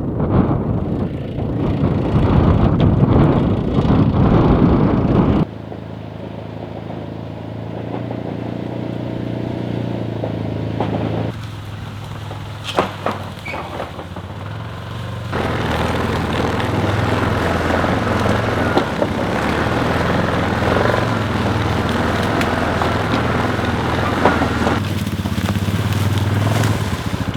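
Small off-road vehicle engine running while being ridden, its note changing a few times. It is loud and noisy for the first five seconds or so, steadier after that, and rises again about fifteen seconds in.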